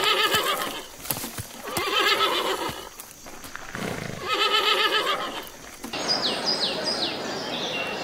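Horse whinnying three times, each call about a second long with a quavering pitch. About six seconds in, it gives way to birds chirping.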